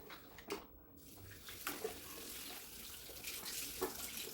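Water pouring onto plants as they are watered: a steady rush of water that starts about a second in.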